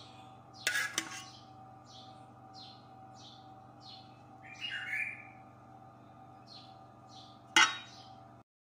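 A bird chirping in short, high, evenly repeated calls over a steady background hum. Sharp metallic clatters of a spoon against the baking tray about a second in and, louder, near the end.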